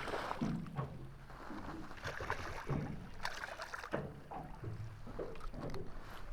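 Small boat on the water: a steady low rumble with water slapping against the hull and scattered knocks and clunks, irregularly spaced.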